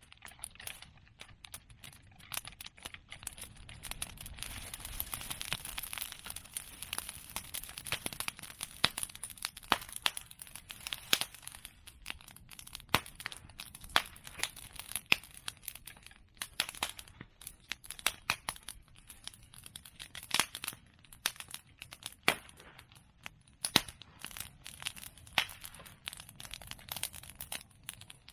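Open bonfire of cut bamboo and chestnut pruning branches burning, crackling continuously with many sharp pops scattered throughout, over a hiss that swells a few seconds in.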